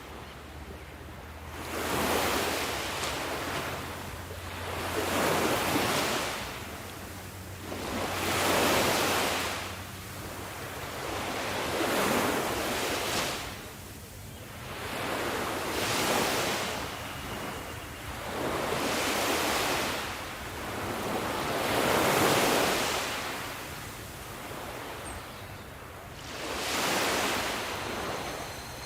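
Sea waves washing onto a shore, one after another, each swelling up and ebbing away about every three seconds.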